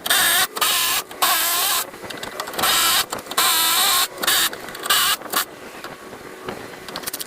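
A handheld electric power tool is run in about seven short trigger bursts over the first five seconds or so, its motor pitch wavering under load. It is quieter after that.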